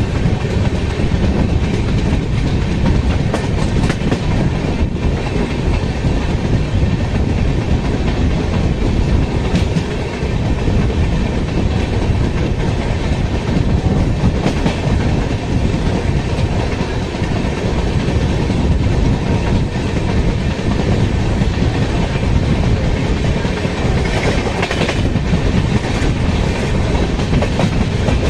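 Express passenger train running at high speed, heard from aboard: a steady loud rumble of wheels on rail with rushing air, broken now and then by sharp clatter as the wheels cross rail joints and points.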